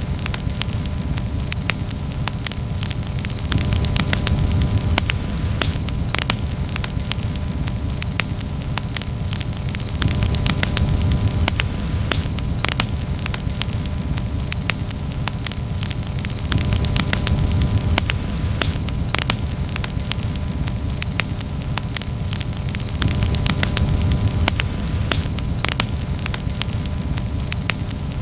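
Campfire burning with constant crackling: many small sharp pops and snaps, irregularly spaced, over a steady low rumble of the flames.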